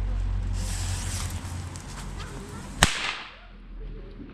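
Small firecracker going off: a brief fizzing hiss, then a single sharp bang about three seconds in.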